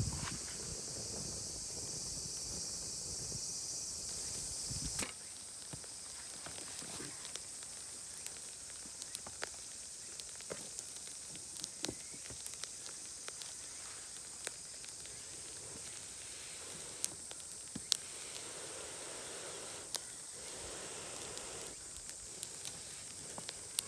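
Charcoal fire crackling, with scattered sharp pops over a soft hiss as skewers grill. For about the first five seconds a louder steady high hiss covers it, then it cuts off abruptly.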